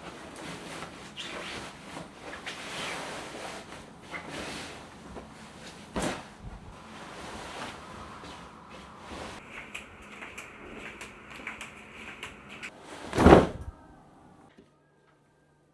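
Household cleaning and handling noises: objects moved and set down, with a sharp knock about six seconds in and a loud thump near the end. After the thump it goes almost silent except for a faint steady hum.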